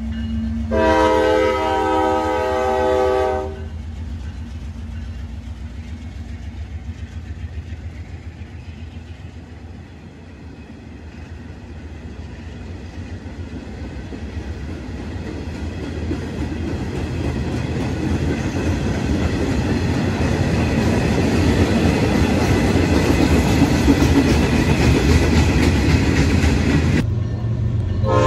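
A Norfolk Southern diesel freight locomotive sounds its multi-note air horn in one blast about a second in. Then a passing freight train's wheels rumble and clatter over the rails, growing steadily louder. Another horn blast starts right at the end.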